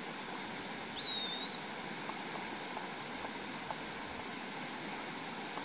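Steady outdoor hiss with one short whistled bird call, rising at its end, about a second in, and a few faint ticks.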